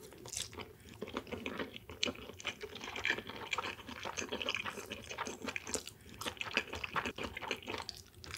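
A person chewing a mouthful of rice and raw seafood from a kaisendon bowl close to the microphone, making many small wet mouth clicks and smacks.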